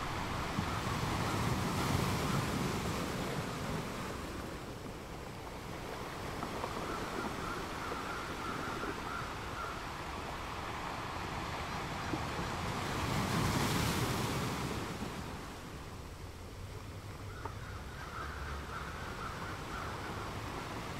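Ocean surf: waves washing in as slow swells of noise, one peaking about two seconds in and another past the middle.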